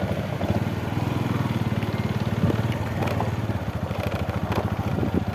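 An engine running steadily with a rapid, even pulsing beat.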